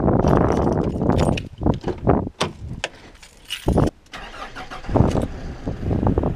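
Clothing and body-worn camera rustling with movement, then scattered knocks and thumps of climbing into a car. About five seconds in, the car's engine starts and settles to a low, steady idle.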